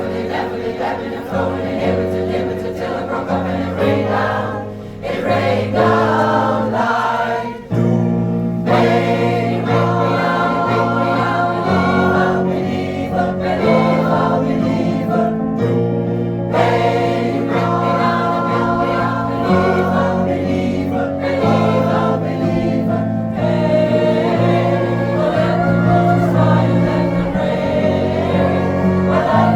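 Pop choir singing long held chords in harmony over musical accompaniment, with a low bass line that shifts every couple of seconds.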